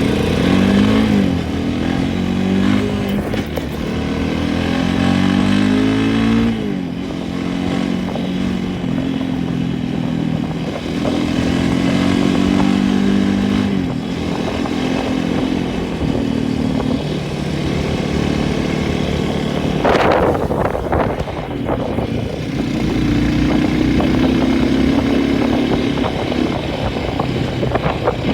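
A small engine running continuously under load, its pitch rising and dropping several times as it speeds up and slows down. A brief clattering noise comes about twenty seconds in.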